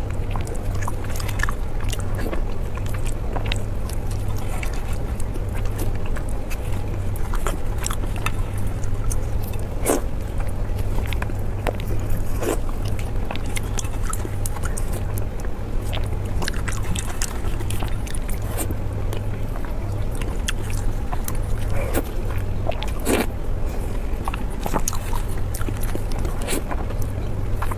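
A person biting and chewing food close to the microphone: scattered sharp crisp clicks, irregular and several a second, over a steady low hum.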